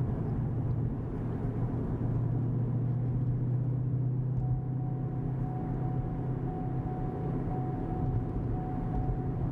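2015 Mustang GT's 5.0 V8 with an MBRP Street 3-inch cat-back exhaust at a steady cruise, heard from the moving car: a continuous low drone with road noise. At cruise the exhaust pretty much sounds like stock.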